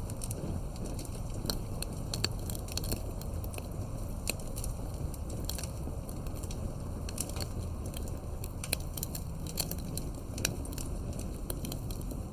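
Wood campfire crackling, with frequent irregular sharp pops over a steady low rumble of the flames.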